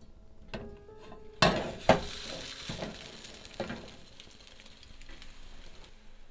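Banana cake sizzling in a nonstick frying pan on low heat, a steady frying hiss. It starts with two sharp knocks about a second and a half and two seconds in.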